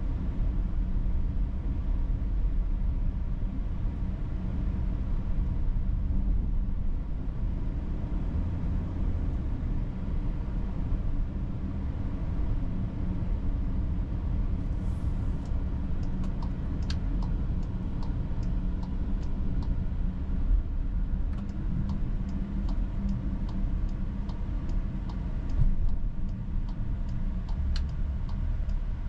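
Inside the cabin of a 2022 Volkswagen Atlas while driving: a steady low rumble of engine and road. About halfway through, a regular ticking starts and keeps an even beat, the sound of the turn-signal indicator.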